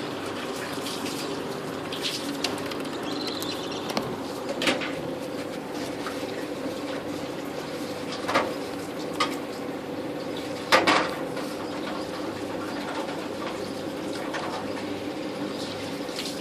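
English budgerigars giving a few short, scattered chirps over a steady hum.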